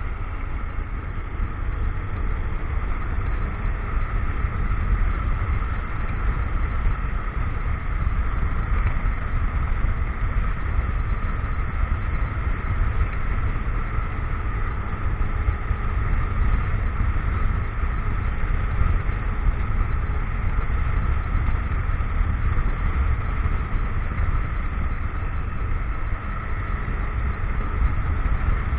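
Motorcycle riding along at steady speed, its engine running under a constant low rumble of wind on the microphone.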